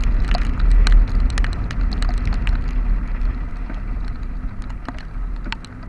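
Raindrops ticking sharply and irregularly against the microphone over a heavy low rumble of wind and road noise from a moving vehicle in the rain. The rumble gradually eases over the second half as the vehicle slows.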